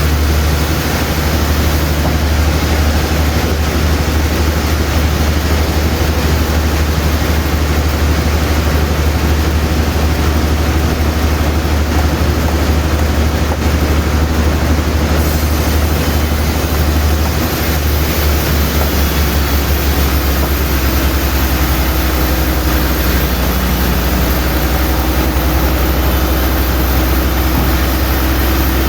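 Sawmill machinery running: a steady, heavy engine drone under a constant noisy hiss, with the low hum shifting slightly about two-thirds of the way through.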